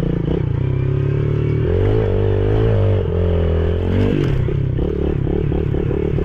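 Yamaha TTR110E pit bike's small four-stroke single-cylinder engine running under the rider, its pitch rising and falling several times as the throttle is opened and eased off.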